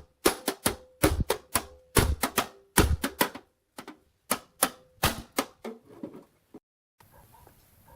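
Quick irregular run of sharp taps on metal, about three to four a second, some with a faint ring. The taps grow weaker and stop about six and a half seconds in.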